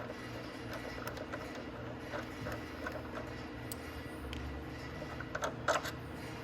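Ratchet wrench with a 12 mm socket clicking in short spells while backing out the motorcycle's front brake caliper bolts, about two or three clicks a second, with a louder clatter of clicks near the end. A steady low hum runs underneath.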